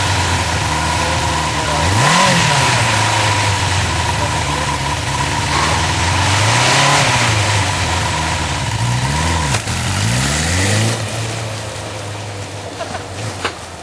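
Motorcycle engine running, revved up and back down several times with steady running in between, then dying down near the end.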